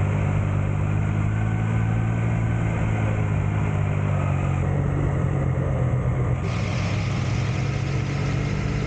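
Triumph Tiger 660 Sport's three-cylinder engine running at a steady low pitch, with a hiss above it that brightens about six seconds in.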